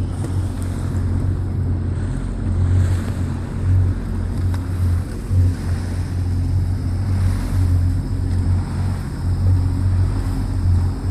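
Sea-Doo jet boat under way, its engine running steadily with water rushing past the hull, and wind buffeting the microphone in uneven gusts of low rumble.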